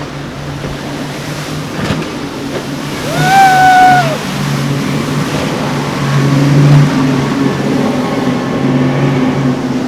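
Motorboat engines running steadily, with a single high pitched tone held for about a second about three seconds in.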